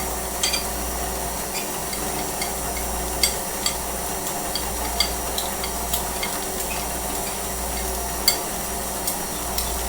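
Electric mixer running steadily with a low hum while mixing a milkshake, with scattered light clicks and taps of kitchenware over it.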